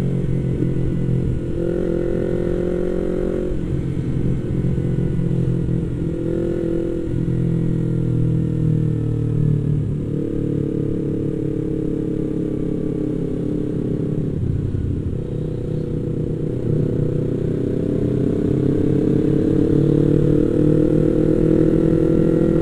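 Yamaha MT-25 parallel-twin engine running as the motorcycle is ridden, its pitch stepping up and down with throttle and gear changes. Over the last few seconds it climbs steadily as the bike accelerates.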